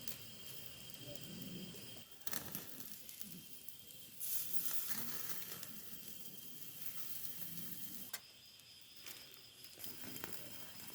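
Food sizzling and hissing in a pan, louder for a few seconds from about four seconds in, with a couple of sharp clicks of utensils.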